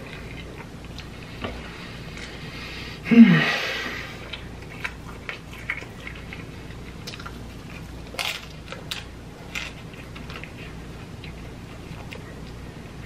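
Close-up chewing and wet mouth noises from someone eating tacos, with scattered small clicks and rustles. About three seconds in comes a short, loud throaty sound that falls in pitch.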